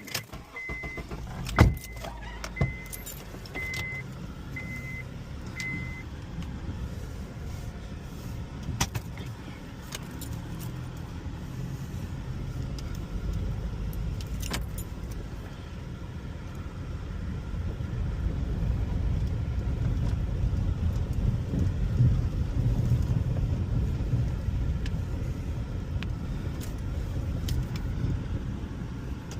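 A car's warning chime beeping six times, about once a second, with a single knock among the first beeps, over a steady low rumble that grows louder in the second half.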